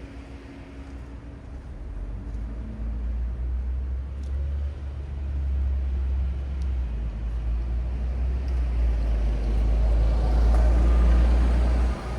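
Road traffic on a city street: a deep engine rumble from passing vehicles swells over several seconds and drops off suddenly near the end.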